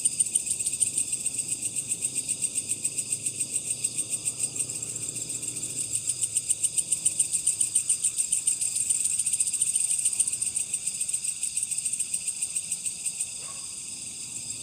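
Cricket chirping: a high, rapid, pulsing trill that goes on steadily and becomes somewhat weaker near the end.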